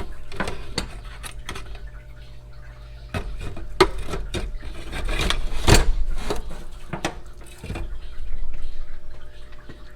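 Liquid sloshing and dripping, with repeated clinks and knocks of small metal carburetor parts, as the parts are set to soak in cleaning liquid.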